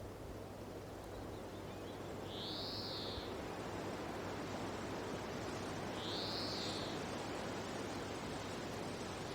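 Steady wind noise, with a high whistled bird call that rises and falls, repeating about every three and a half seconds: twice in this stretch.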